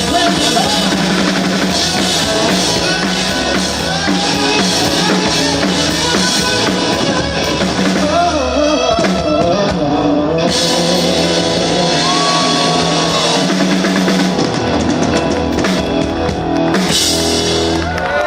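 Rock band playing live, with a drum kit, guitar and some singing.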